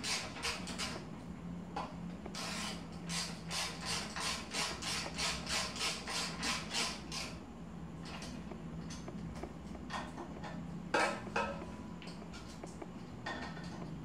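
Ratchet wrench clicking in short back-and-forth strokes, about two or three a second, tightening a bolt during bicycle assembly, followed by a few scattered ticks and two sharper clicks near the end.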